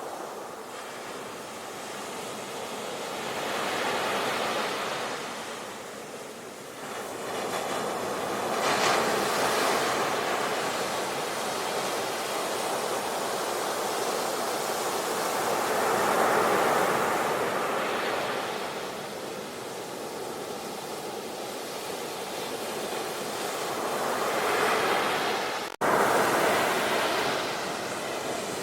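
Ocean waves breaking on a shore, the surf swelling and falling away every few seconds, with a sudden brief dropout near the end.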